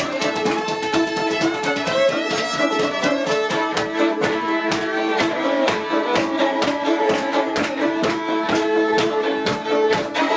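A fiddle playing a tune live with a steady beat of sharp accompanying strokes, about four a second.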